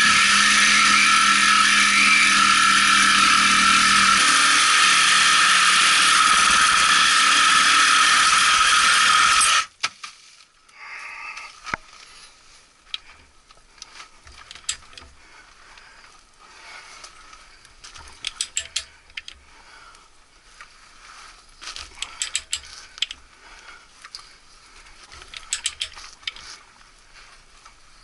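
A loud, steady machine noise that cuts off suddenly about ten seconds in, followed by scattered clicks and ratchet-like ticks of hand-tool work.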